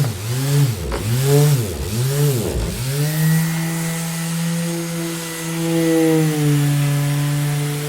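Electric orbital sander running with a steady motor hum; in the first three seconds its pitch drops sharply and recovers three times, then it settles back to an even whine.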